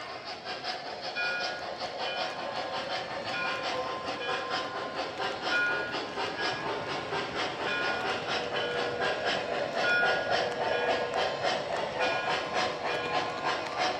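O-scale model train running on its track, with a quick steady rhythm of wheel clicks and a high ringing tone repeating about once a second.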